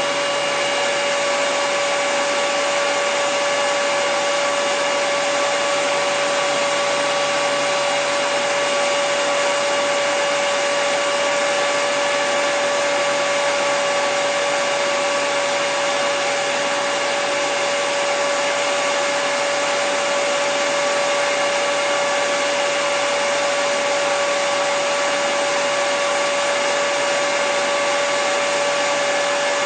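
Hair dryer running steadily, a constant rush of air with a steady motor whine.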